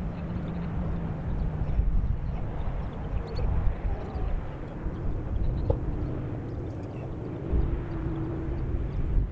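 Low, uneven outdoor rumble with a faint steady drone of a distant engine.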